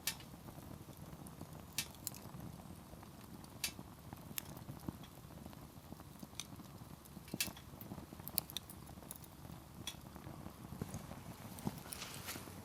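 Wood campfire crackling: sharp pops and snaps of burning firewood at uneven intervals, roughly one a second, over a low steady rumble.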